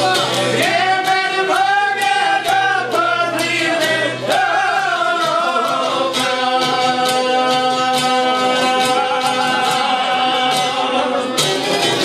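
Albanian folk song: a male voice sings long, wavering held lines over a steady beat and a plucked qifteli accompaniment.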